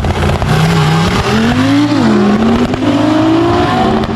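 Car engine accelerating hard, its pitch climbing and then dropping back at gear changes, twice.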